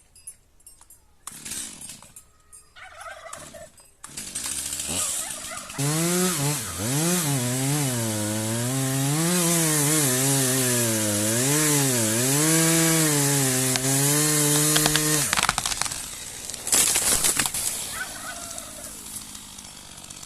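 Chainsaw running hard, its engine note rising and falling as the chain bites into a large tree trunk, then cutting off sharply about fifteen seconds in. About a second and a half later there is a short clatter of cracks.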